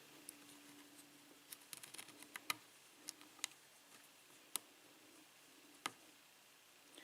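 Faint, irregular light metallic clicks and ticks of a lock pick working the pin stack inside a padlock's keyway, single-pin picking to set a stubborn first pin. A quick cluster comes a second and a half in, then single clicks every second or so.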